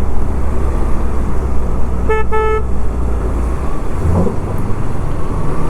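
Two short horn beeps about two seconds in, over the steady drone of a KTM 390 Adventure's single-cylinder engine and wind noise while riding.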